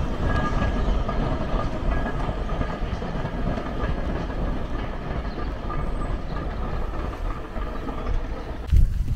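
Train running away down the line: a steady rumble of wheels on the track, slowly fading, with faint high ringing tones from the rails that die away in the first few seconds. A sudden thump near the end.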